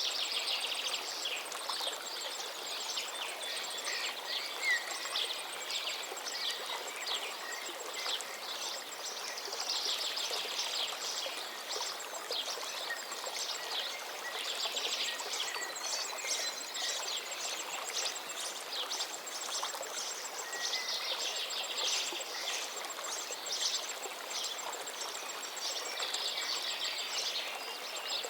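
A river running steadily, with several small birds chirping and trilling throughout.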